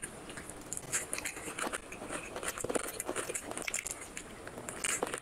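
Close-miked chewing and wet lip-smacking of a mouthful of rice and chicken curry eaten by hand, with quick, irregular clicks and crackles.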